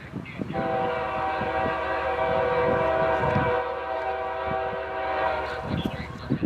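Lead diesel locomotive's air horn sounding one long chord of several notes for about five seconds, starting about half a second in, over the low rumble of a passing freight train.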